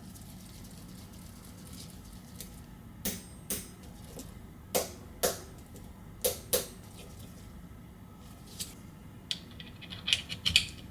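Small sharp clicks and taps of repair tools and phone parts being handled on a workbench. They come mostly in pairs about half a second apart, with a quick run of clicks near the end.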